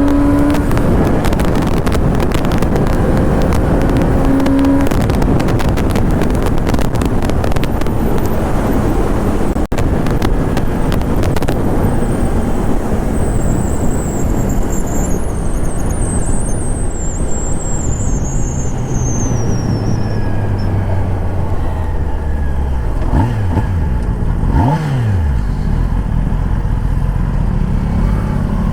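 Onboard sound of a 1000cc sport motorcycle ridden fast: heavy wind rush on the microphone over the engine. About halfway through a high whine falls slowly in pitch, and near the end the engine pitch drops quickly a couple of times.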